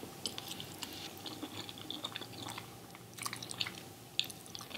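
A person chewing a mouthful of keto spaghetti made with shirataki (Miracle) noodles, close to the microphone: many soft, irregular mouth clicks.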